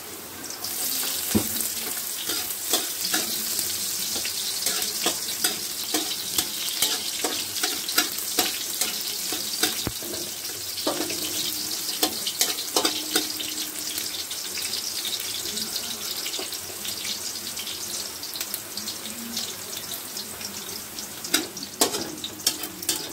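Garlic and chopped red onion sizzling in hot oil in an aluminium wok, the sizzle swelling as the onion goes in about a second in. A metal spatula scrapes and clicks against the wok as the sauté is stirred.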